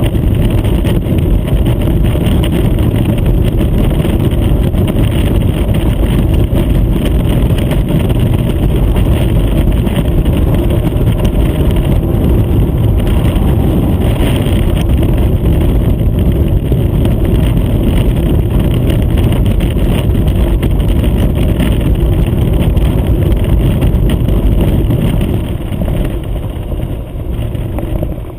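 Motorcycle riding at highway speed: loud, steady engine and wind noise, easing off a little near the end.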